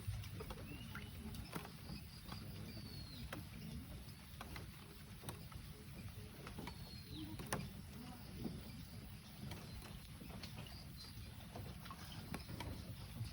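Light rain ambience: scattered drips and ticks over a steady low rumble, with a few short descending chirps from a bird.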